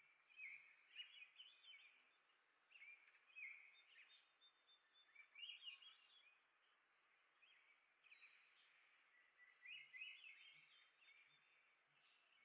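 Songbirds singing faintly: short, quick warbled phrases repeated every few seconds, over a soft hiss of outdoor background noise.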